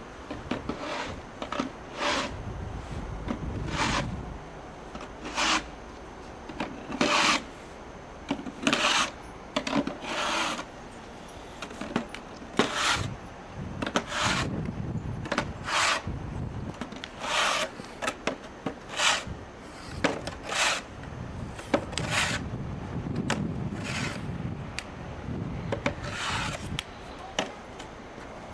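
Repeated rough scraping strokes, each a fraction of a second long and coming roughly one every one to two seconds.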